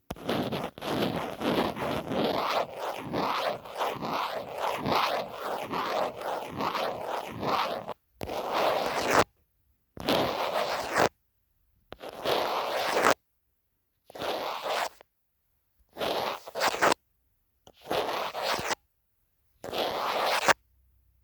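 Close-up scratching on a phone case: about eight seconds of continuous, rapid back-and-forth strokes, then a series of separate scratching bursts of about a second each, with dead silence between them.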